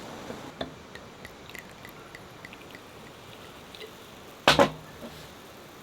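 Sparkling soju fizzing and trickling, with small scattered pops and drips. About four and a half seconds in comes a sharp double clunk, the loudest sound, like a bottle or glass being set down hard.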